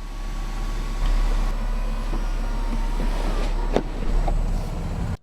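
A steady low vehicle rumble with a hiss over it and a faint steady whine, broken by one sharp click a little before the end.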